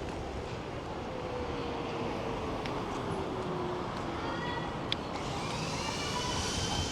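Riding an electric scooter: steady rumble and wind noise with a motor whine that falls slowly in pitch over the first few seconds, then a higher whine that rises slightly from about four seconds in. A single sharp click about five seconds in.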